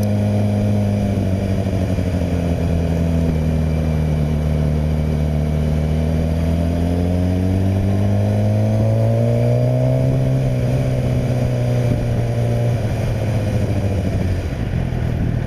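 Suzuki GSX-R600's inline-four engine running under way, heard from a microphone inside the rider's helmet. The engine note sinks over the first few seconds, holds steady, then climbs for about four seconds in the middle as she accelerates, levels off, and drops lower near the end.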